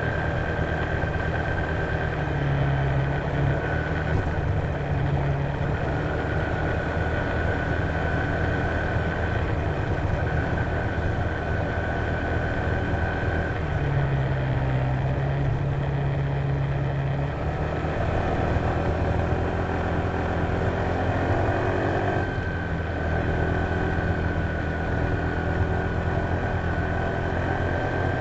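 Honda PCX150 scooter's single-cylinder engine running steadily at low engine speed, with a steady high whine over it; the engine note dips briefly past the middle and climbs near the end.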